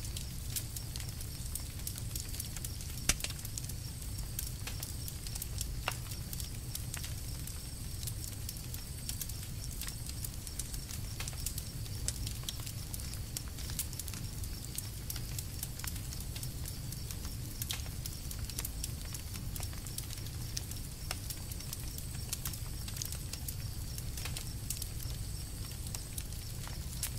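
Campfire crackling, with irregular small pops and one sharper pop about three seconds in, over a low steady rumble.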